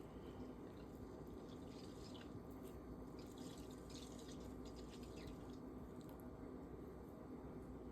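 Faint wet dripping and ticking sounds over a steady low hum, the ticks thickest about three to four seconds in.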